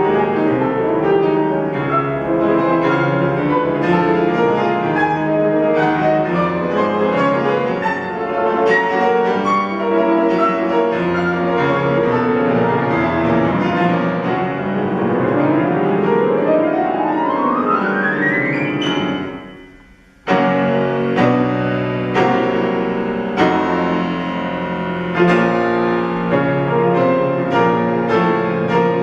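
Solo piano playing fast, dense passagework. Near the middle, a long rising run climbs for about four seconds, breaks off into a brief pause, and then loud chords resume.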